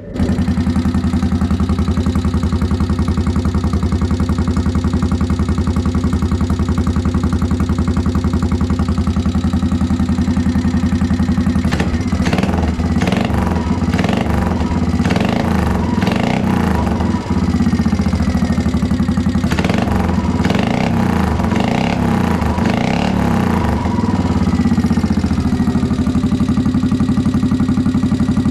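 ZR200 motorcycle's single engine running through its exhaust: steady idle, with two runs of quick throttle blips in the middle before it settles back to idle.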